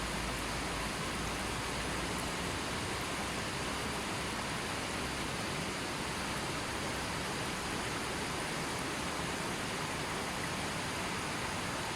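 A gentle river flowing, a steady, even rush of water.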